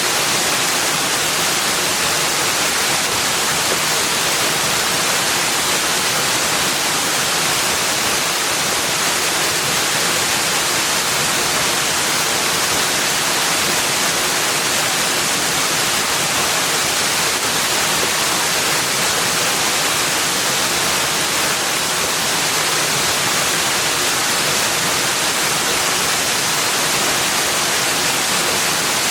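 Steady rushing water, an even hiss with no birds, splashes or other distinct sounds standing out.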